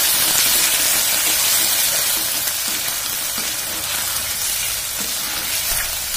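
Sauce-coated potato pieces sizzling in hot oil in a metal kadhai, a steady hiss, while a slotted metal spatula stirs them, scraping the pan now and then.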